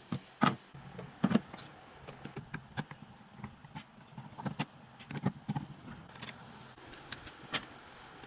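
A string of irregular sharp clicks and knocks, like small hard metal parts being handled, the loudest about half a second and a second and a quarter in.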